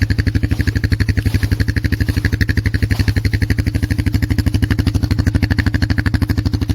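Polaris Magnum 425 ATV's single-cylinder four-stroke engine running at a steady low speed, an even rapid chugging of about ten firing pulses a second that neither rises nor falls.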